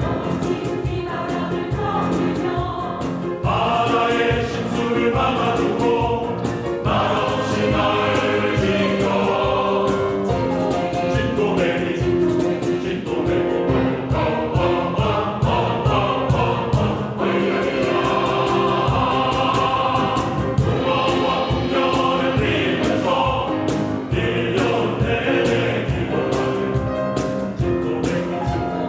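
Mixed choir of men and women singing a Korean song in harmony over a steady rhythmic accompaniment.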